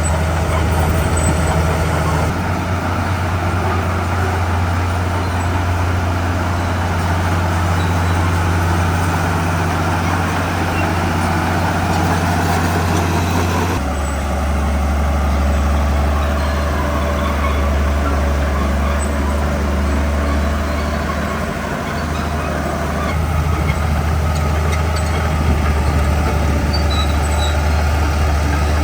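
Komatsu D41P bulldozer's diesel engine running steadily under working load. The engine note shifts abruptly about two seconds in, about halfway through, and again a few seconds later.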